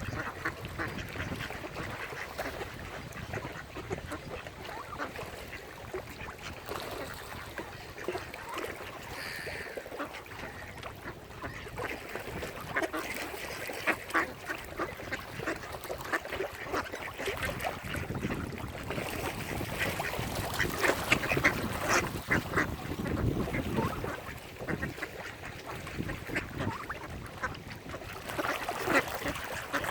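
Mallard ducks quacking in a busy chorus of short overlapping calls, louder for a few seconds past the middle and again near the end.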